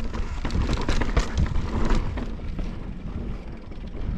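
Mountain bike rolling over slickrock: uneven rumble of wind buffeting the microphone and tyres on rock, with frequent sharp clicks and rattles from the bike.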